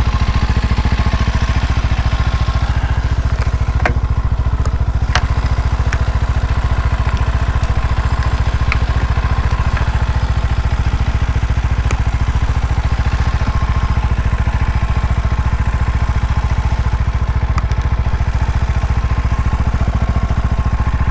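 Small Herald motorcycle's engine running steadily while riding, with a constant wind rush over it and a few faint clicks.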